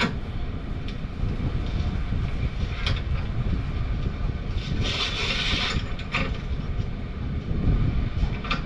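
Pipe wrenches working a steel gas line union under a furnace: a few sharp metal clicks and a scraping hiss lasting about a second, about five seconds in, over a steady low rumble.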